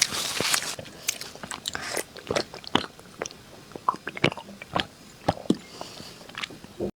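Close-miked biting and chewing of crunchy food: a dense crunch in the first second and another just before two seconds in, then a string of separate sharp crunches and wet clicks.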